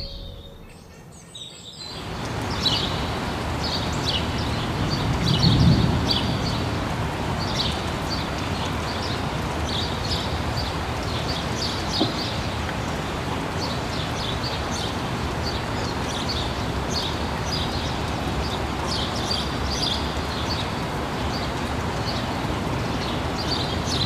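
Small birds chirping again and again over a steady rushing outdoor noise that comes in about two seconds in, with a low rumble swelling a few seconds later.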